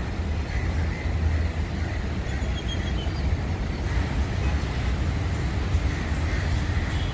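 Vande Bharat electric train set running slowly along the track: a steady low rumble.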